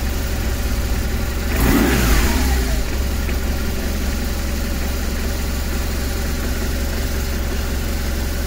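2009 BMW R1200RT's boxer twin idling steadily at just over 1,000 rpm, with a brief louder swell about two seconds in. It holds a smooth, steady idle now that the faulty throttle position sensor, which had been giving out-of-range readings near closed throttle and causing stalls, has been replaced and reset.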